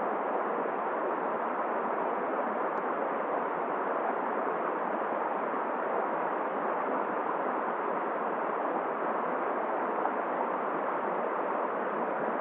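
Steady rushing noise of a flowing river with wind, even and unchanging throughout.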